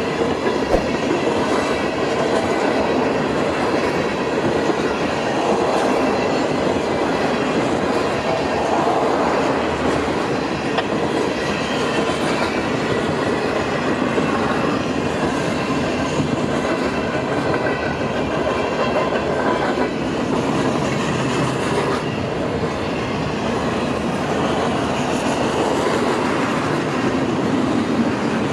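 Train rolling past at speed: a steady rumble of railcars with a continuous clatter of wheels clicking over the rails.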